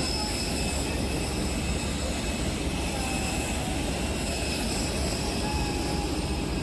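Airliner jet engines running steadily: an even, unbroken rush with a strong low rumble and a few faint steady high whines.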